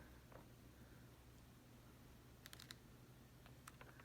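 Near silence: faint room tone with a low steady hum and a few soft, short clicks, a small cluster of them about two and a half seconds in.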